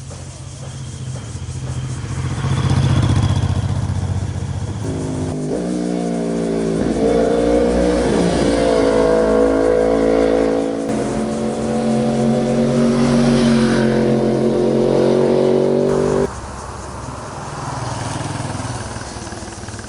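Sport motorcycle engines revving as the bikes pass, their pitch rising and falling through gear changes. The sound changes abruptly about five seconds in and again about sixteen seconds in.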